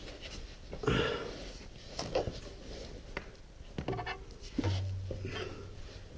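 Scattered light knocks, clicks and rustling from hands handling tools and parts while working on a motorcycle, with a low hum coming in about two-thirds of the way through.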